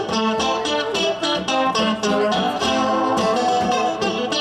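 Live band music led by a guitar strummed in a steady, quick rhythm, with no singing.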